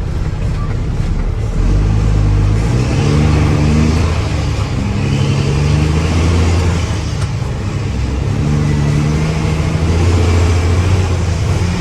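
Mack dump truck's diesel engine running and revving, its pitch stepping up and settling back several times.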